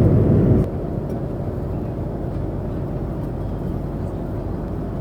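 Jet airliner cabin noise in flight: a steady low rumble of engines and airflow, louder for the first half-second, then dropping suddenly to a quieter steady level.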